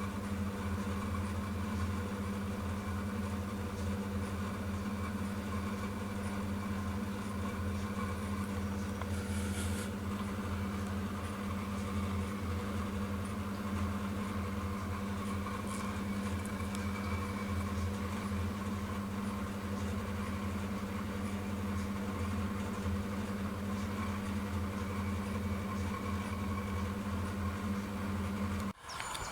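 A steady low mechanical hum that keeps the same pitch throughout and cuts off abruptly near the end.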